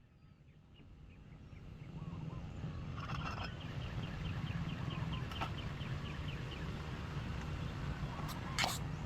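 Birds calling, a quick run of short high notes in the middle, over a steady low rumble, with one brief sharp sound near the end.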